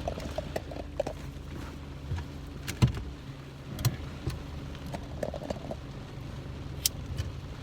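Steady low rumble of a car driving, heard inside the cabin, with a few sharp clicks and knocks, the loudest about three seconds in.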